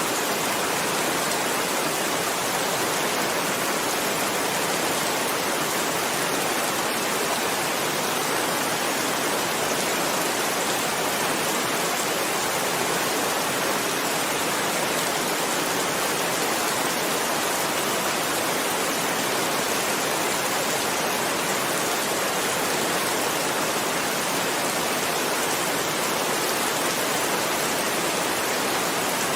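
Steady heavy rain, an even hiss that does not change.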